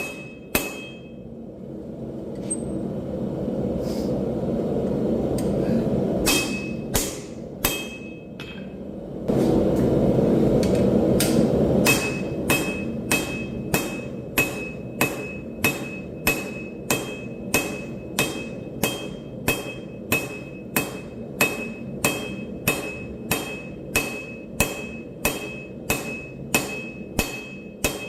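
Hand hammer forging steel on an anvil, each blow ringing, settling into a steady rhythm of about two blows a second after a pause. A steady low roar fills the pause and is loudest just before the hammering resumes.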